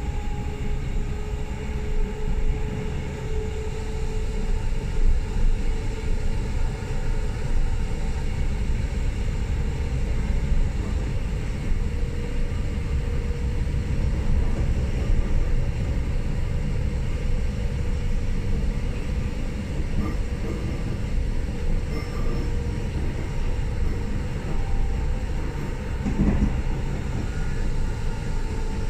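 Hamburg S-Bahn class 472 electric multiple unit heard from inside the passenger car while running at speed: a steady rumble of wheels and running gear, with a few faint steady tones above it.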